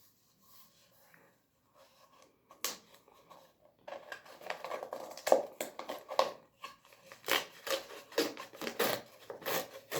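Paper being handled and rustled, with a run of sharp crisp clicks and snaps starting about four seconds in.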